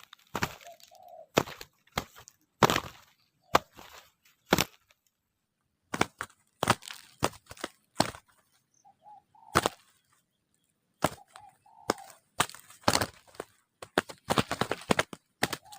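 Irregular sharp cracks and knocks, some single and some in quick clusters, with a few faint short coos from a spotted dove between them.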